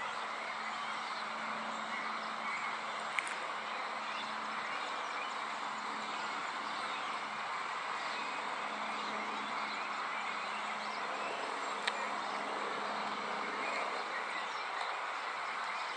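Steady outdoor background noise with a faint low hum underneath, broken by two sharp clicks about nine seconds apart.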